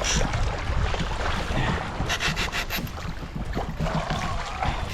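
Rubbing and knocking on a fishing kayak over a low rumble, with a quick run of clicks about two seconds in.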